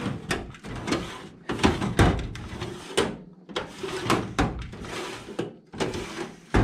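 Metal hand tools (wrenches, vise grips, a hammer) clanking and rattling as they are rummaged and packed into a tool bag, with a string of irregular knocks.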